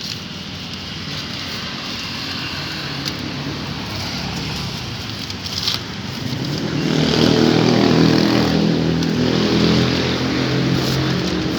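A motor vehicle's engine running close by, its low hum growing louder about two-thirds of the way through, over steady street noise.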